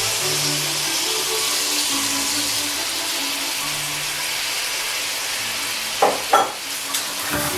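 Food frying in a pan with a steady sizzle, and two sharp knocks, as of a utensil against the pan, about six seconds in.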